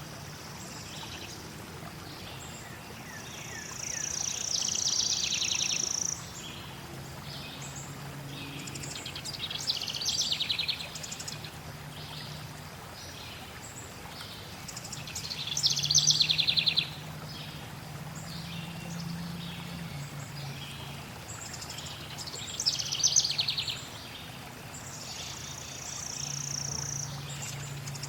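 Songbirds singing in phrases every few seconds, some fast trills and some long high whistles, over a steady rush of flowing water.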